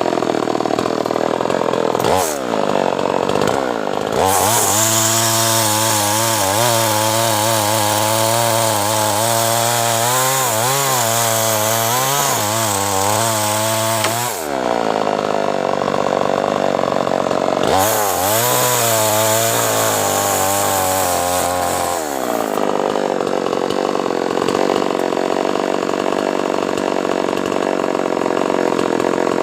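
Chainsaw cutting acacia wood, its engine running hard throughout. Twice its pitch drops, to a lower, wavering tone that dips and recovers over and over: for about ten seconds in the first half, then for about four seconds.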